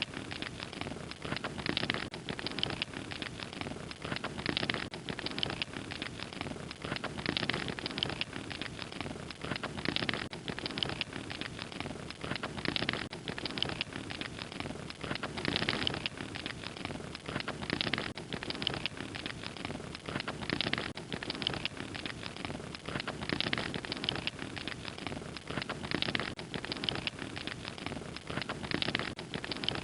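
Fire crackling steadily, with dense, irregular snaps and pops over a soft hiss.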